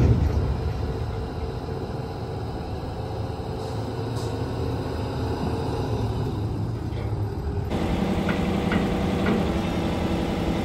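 Heavy diesel equipment engine running steadily; its sound changes abruptly about three-quarters of the way through, and a few faint ticks follow.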